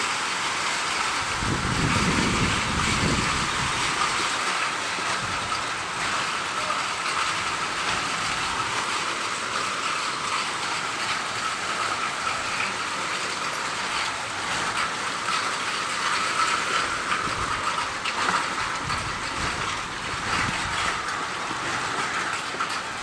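Steady rain falling and pattering on surfaces, with a brief low rumble about two seconds in.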